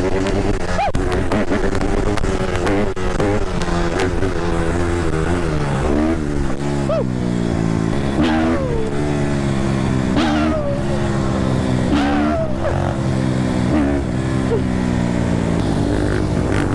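Dirt bike engine revving as it is ridden, its pitch rising and falling again and again throughout.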